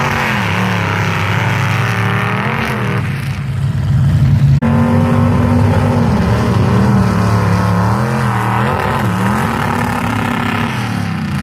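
Chevy-powered mud truck engine running hard, its revs rising and falling again and again, with an abrupt cut in the sound about four and a half seconds in.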